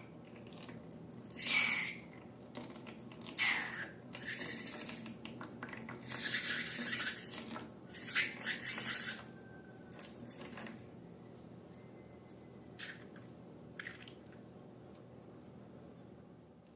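Several short bursts of wet, splashing liquid sound, between about one and nine seconds in, followed by two faint clicks.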